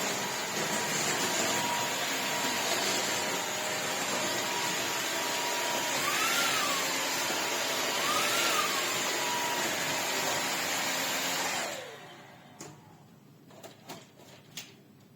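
Shark Detect Clean & Empty cordless vacuum running, its motor pitch briefly rising and falling twice. It winds down about twelve seconds in, followed by a few clicks.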